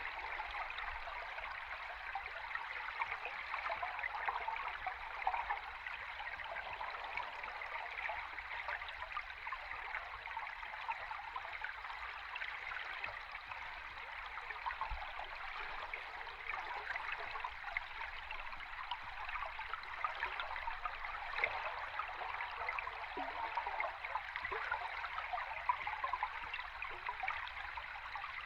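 A river stream recorded underwater, its water flowing and bubbling in a steady, unbroken rush.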